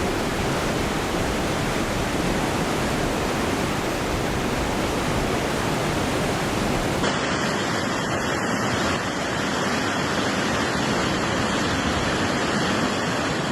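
Steady, loud rush of fast-flowing floodwater. The sound changes abruptly about seven seconds in to another similar stretch of rushing water.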